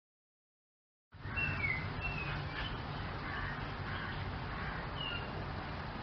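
Silence, then about a second in an outdoor background starts: a few short, high bird chirps over a steady hiss and low rumble.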